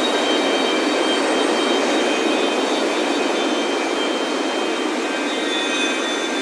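Ocean surf washing steadily onto a beach, a continuous rush without low rumble, with wind chimes ringing faintly above it.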